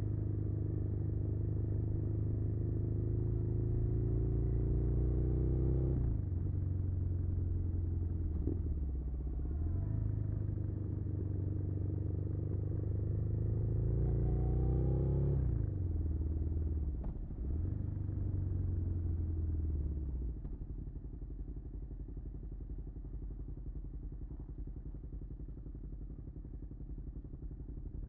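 Suzuki SV650's V-twin engine under way, its note climbing steadily and dropping sharply twice, about six seconds in and again past the middle, as the rider works the throttle and gears. After about twenty seconds it goes quieter and steadier.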